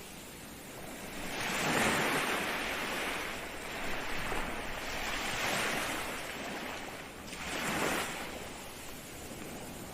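Ocean waves breaking and washing on the shore, the surf swelling louder three times, about two seconds in, around the middle and near the end, over a steady hiss.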